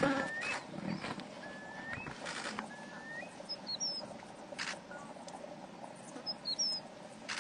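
A lion's low growl dies away in the first half second. After it comes a quiet outdoor bed where a bird gives a short rising whistle three times, with a few faint higher chirps and scattered clicks.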